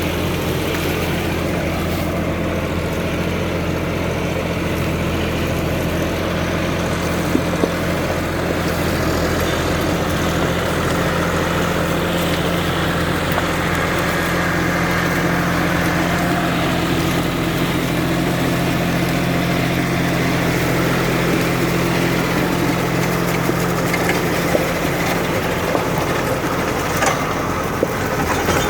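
John Deere tractor engine running steadily at a low, even speed, its note shifting slightly near the end.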